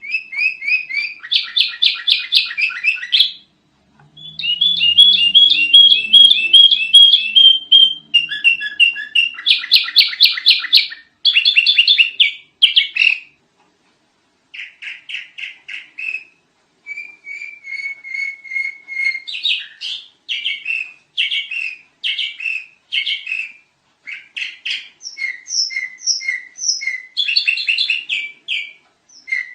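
Sooty-headed bulbul (kutilang) singing: loud, rapid runs of short chirping notes in phrases of a few seconds each, with brief pauses between phrases.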